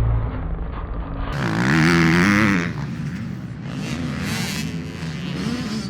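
Dirt bike engines revving, with one loud rev rising and falling over about a second near the start, then quieter engines revving. A low rumble fills the first second.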